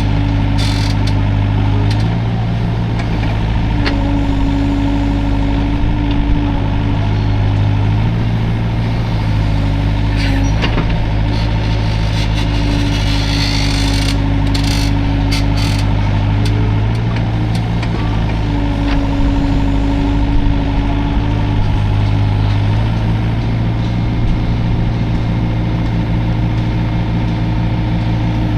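Hydraulic excavator's diesel engine running steadily under working load. A higher steady whine cuts in and out every few seconds as the machine is worked, with a few scattered knocks.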